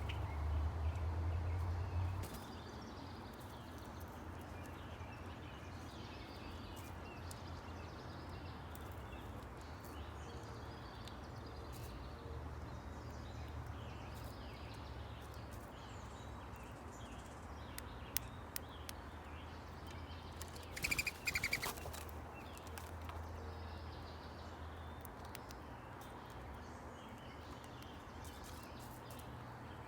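Outdoor ambience of songbirds chirping and calling, with one louder rapid chattering call about two-thirds of the way through. A low rumble sounds for the first couple of seconds, and a few sharp ticks come just before the loud call.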